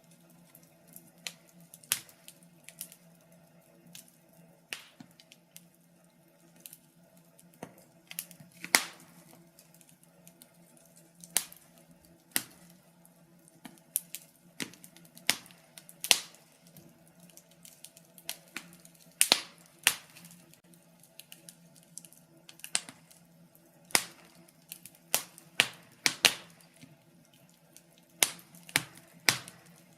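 Wood fire in a fireplace crackling, with irregular sharp pops and snaps, roughly one a second and sometimes several in quick succession, over a faint steady low hum.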